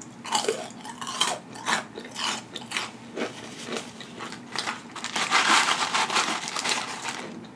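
Mouth chewing a crispy onion ring, with a series of short crunches. About five seconds in, a paper carton rustles as onion rings are tipped out of it onto a paper wrapper.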